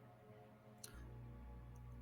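Near silence: a faint steady low hum, with one short click a little under a second in.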